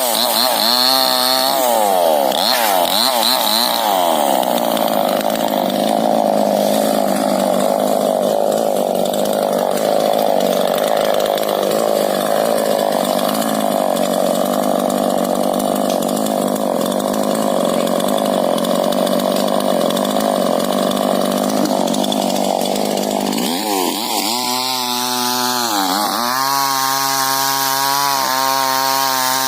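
Two-stroke chainsaw cutting into a rubber tree trunk: it revs up and down a few times, then runs steadily at full throttle through the wood for about twenty seconds, then drops back and revs in short bursts near the end.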